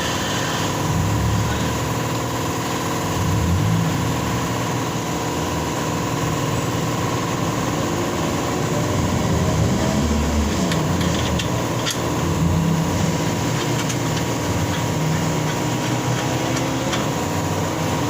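A steady motor drone with a constant thin tone above it and a few faint clicks.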